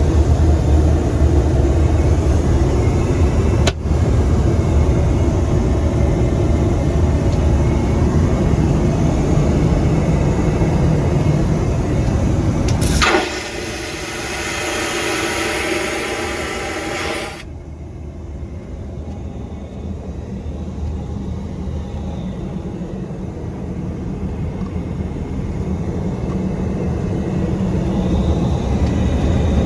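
Boeing 737-900 cabin noise: a steady low engine and airflow rumble with hiss. About 13 seconds in it changes abruptly to a brighter hiss for a few seconds. It then drops to a quieter rumble that slowly grows louder.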